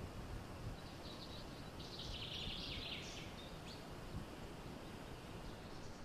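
Steady low background noise with a short run of high bird chirping from about one to three seconds in.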